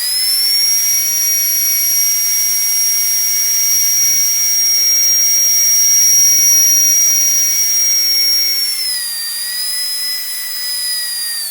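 Dentist's drill whining at a steady high pitch, dropping slightly in pitch about nine seconds in and cutting off at the end.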